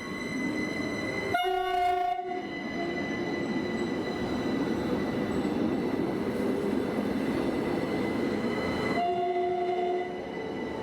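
Mariazellerbahn narrow-gauge electric train running, its horn sounding twice: a short blast about a second and a half in and another near the end. Under the horn are the rumble of the running train and a steady high whine.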